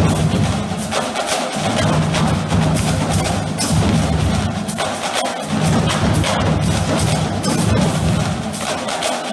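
Marching drumline playing a cadence: dense, rapid snare and tenor strokes over pitched bass drums. The low drums drop out briefly twice, about a second and a half in and again around five seconds in.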